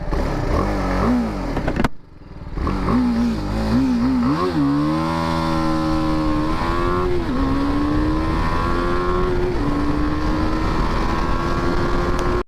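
BMW G 310 R's single-cylinder engine blipped a few times, then launched at full throttle. Its note climbs and drops back at each upshift as it accelerates through the gears, over a rush of wind noise.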